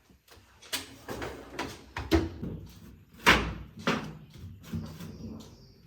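Irregular knocks and clunks from the washing machine's drum and bearing assembly being handled and turned by hand, the loudest a little over three seconds in. The bearing feels stiff and rough, which the repairman puts down to a lack of grease.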